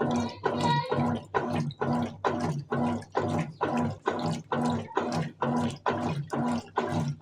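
Colormaq Eco Max 14 kg top-loading washing machine agitating its load in the wash phase: the motor hums in short, even strokes about three times a second, with water sloshing in the tub.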